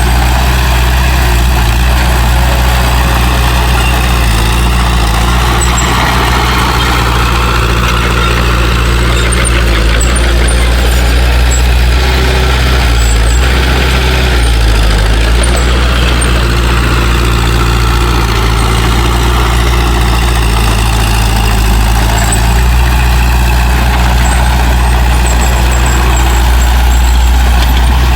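Heavy diesel engine of earthmoving equipment running steadily, a deep engine note that barely changes.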